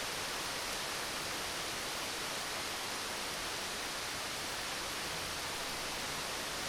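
Steady rain falling, an even, unbroken hiss with no thunder in it.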